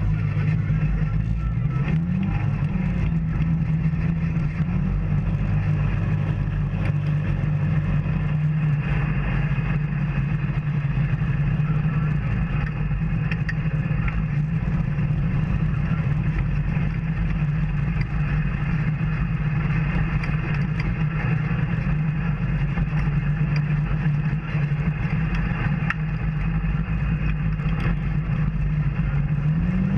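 Off-road vehicle engine running steadily under way. The pitch rises briefly about two seconds in and again near the end.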